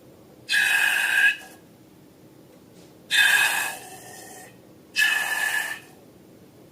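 Air hissing out of a balloon's neck in three short, sudden rushes, each just under a second long with a slight whistling edge.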